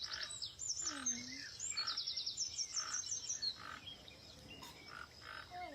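Birds calling: rapid high trills repeated several times, mostly in the first half, over a regular series of short croaking calls about two or three a second.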